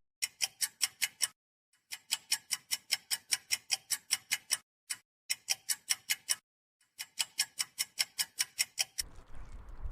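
Clock-like ticking sound effect: rapid, even ticks about six a second, in four runs separated by short pauses, with no background noise behind them.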